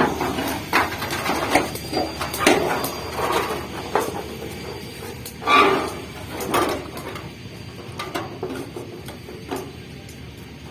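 Hammer blows on thin sheet steel from an old refrigerator as a folded seam is shaped and closed. The taps come irregularly, about one a second, and grow fainter and sparser after about seven seconds.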